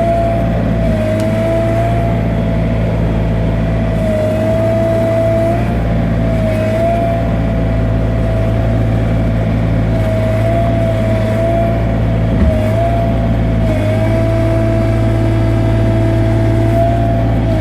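Sany SY35U mini excavator's 24 hp Yanmar diesel running steadily under hydraulic load, heard from inside the cab. A high hydraulic whine rides over the low engine hum and sags briefly several times as the machine strains to push a tree over, with one short knock near the end.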